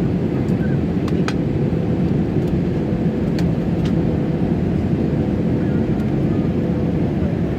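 Jet airliner cabin noise heard from inside the cabin: a steady, deep rush of engine and airflow noise with a faint steady hum. A few light clicks sound over it.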